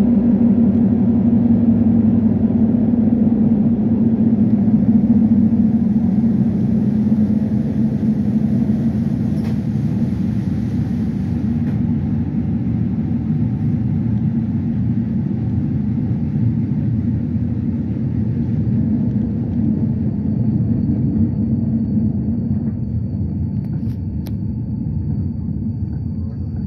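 Rolling rumble of a passenger train, heard from inside the coach as it runs on the rails, gradually fading as it slows alongside a station platform. A faint steady high whine comes in near the end.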